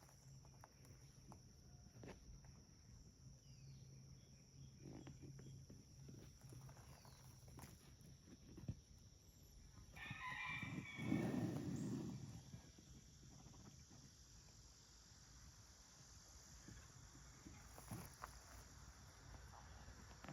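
Near silence with a faint low hum, and about halfway through a single animal call lasting about two seconds.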